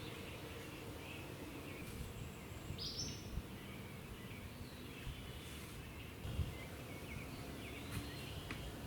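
Quiet outdoor ambience with a few short, high bird chirps and some faint low thumps.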